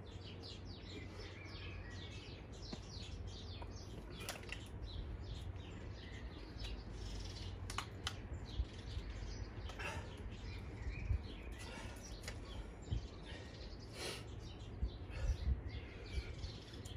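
Small birds chirping and twittering in quick short notes, thickest in the first few seconds, over a steady low hum.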